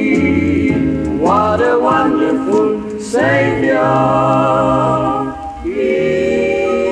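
Gospel vocal group singing in close harmony, phrase by phrase, settling into one long held chord near the end as the song closes.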